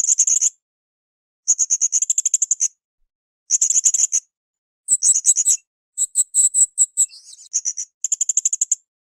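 Srindit (hanging parrot) calling in a run of short, high-pitched trills, each a quick train of sharp notes lasting under a second or so. About six trills come at intervals of a second to a second and a half, with dead silence between them. One trill, about two-thirds of the way through, is longer and more varied.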